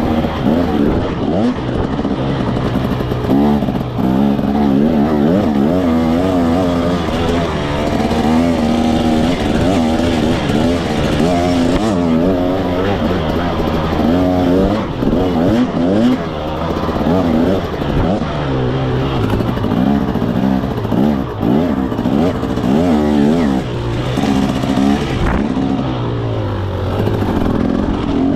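KTM 300 SX two-stroke single-cylinder dirt bike engine being ridden, its pitch rising and falling again and again as the throttle is opened and closed.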